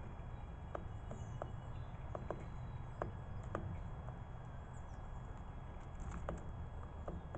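About ten irregular sharp taps and clicks, typical of birds pecking and cracking seed, over a low steady hum, with a couple of faint high bird chirps.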